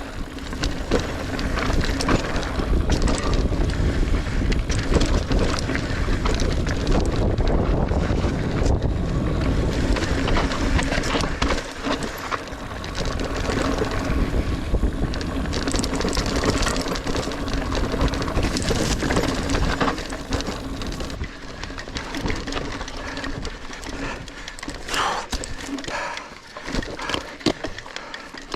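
Niner Air 9 RDO 29er mountain bike being ridden over rooty dirt singletrack: tyres rolling and the bike rattling and knocking over bumps, with wind noise on the microphone. It gets quieter about two-thirds of the way through.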